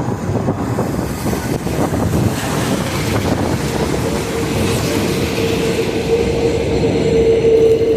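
Subway train on the 2/5 line running through the station, a continuous rumble joined about halfway through by a steady whine that grows louder toward the end.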